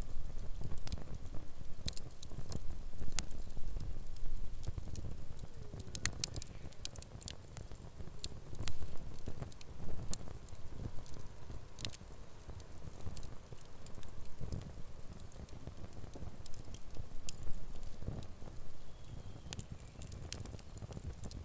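Wood campfire crackling: irregular sharp pops and snaps scattered throughout, over a low steady rumble.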